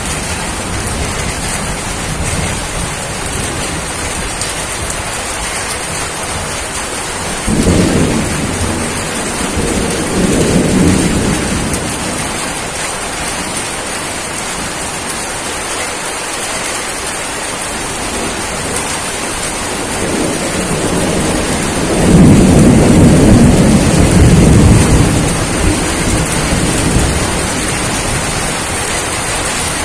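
Steady rain falling, with two rolls of thunder: one starts about seven seconds in and lasts a few seconds, and a louder, longer one comes about twenty-two seconds in.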